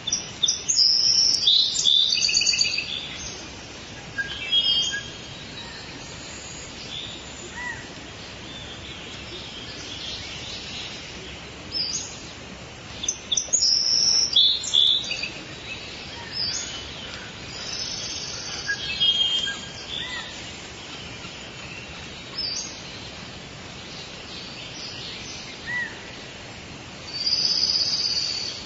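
Forest birds chirping and trilling in short high bursts over a steady background hiss, with the loudest flurries of calls at the start, about halfway through, and near the end.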